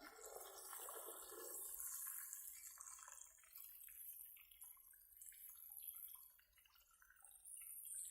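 Faint bubbling and crackling of hot oil as a whole chicken deep-fries.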